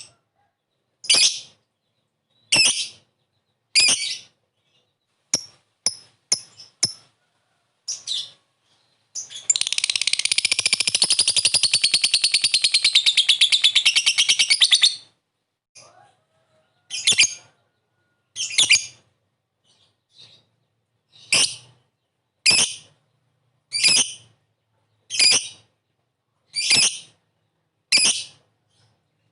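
Lovebird calling: short, sharp, high chirps spaced about a second or so apart. About nine seconds in comes one long, rapid chattering trill, the 'ngekek', lasting about five and a half seconds.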